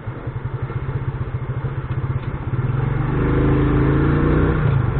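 Motorcycle engine running with a fast, even pulsing. About three seconds in it grows louder and steadier, as if the throttle is opened.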